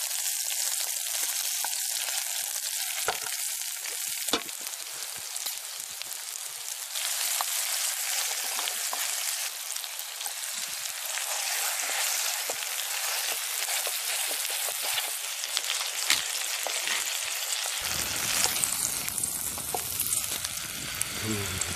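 Steak and sliced red onions sizzling hard in hot oil in a skillet over a wood fire, a steady frying hiss. A few sharp clicks of a metal spoon and tongs against the pan, and a low rumble joins near the end.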